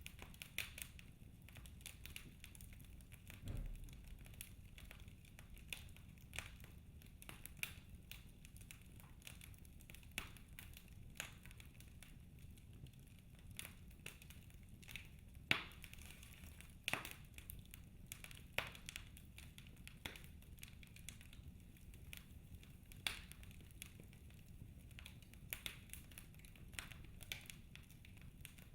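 Wood fire in a fireplace crackling: irregular sharp pops and snaps of burning logs over a low steady rumble, with a dull thump about three and a half seconds in.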